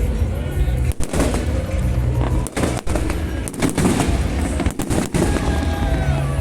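Fireworks going off, a dense run of bangs and cracks over a low rumble, with music faintly underneath.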